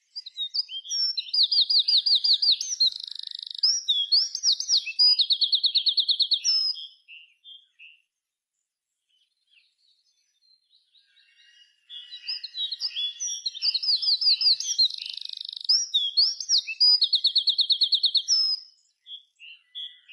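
A small songbird singing two long, complex songs of fast trills and varied chirps, with a pause of about five seconds between them.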